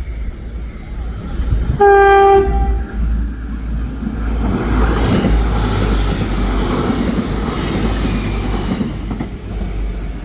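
A train sounds one short, loud horn blast about two seconds in, then runs past, its rumble and wheel noise on the track swelling and fading away.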